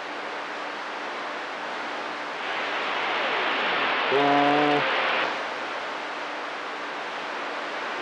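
CB radio receiver hiss. About two and a half seconds in the static swells as another station keys up, a short buzzy beep tone sounds around four seconds in, and then the hiss falls back.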